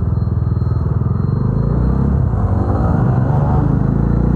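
Motorcycle engine running under way, recorded on the bike itself, its pitch rising and falling about halfway through as the throttle changes, over a low rumble of wind and road.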